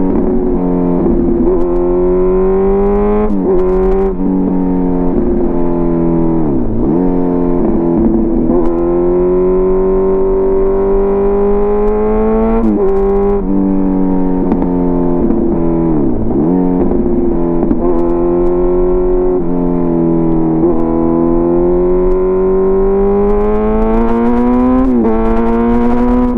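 Kawasaki Z900's inline-four engine through an SC Project CRT exhaust, running loud and steady with the pitch slowly climbing. The pitch dips sharply and recovers about every three to four seconds, about seven times.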